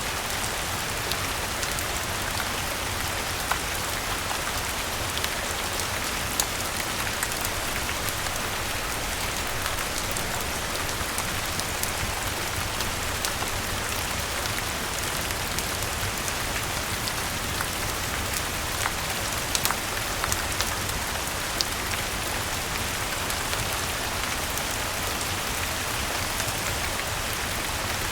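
Steady rain falling, an even hiss with scattered sharp ticks and pops through it.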